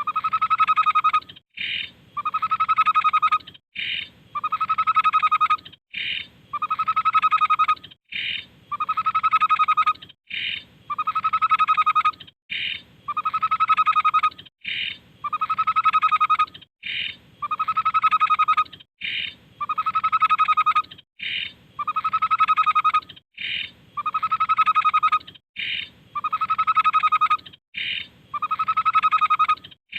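Tepus (babbler) song repeated in a steady loop: a short higher note, then a longer, steady lower note, about once every two seconds.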